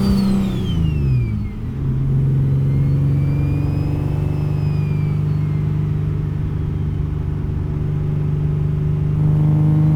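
Single-turbo Infiniti G37 sedan's 3.7-litre V6 under way: the revs fall over the first second and a half with a brief dip in loudness, then the engine holds a steady note at constant revs. A faint high whine rises and falls over it.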